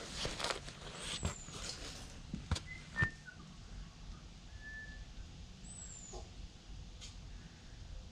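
Handling noise and a few sharp metallic clinks and knocks from hand tools while working at the motorcycle's stuck oil drain plug, three knocks in the first three seconds, with a few faint short high whistle-like chirps in between.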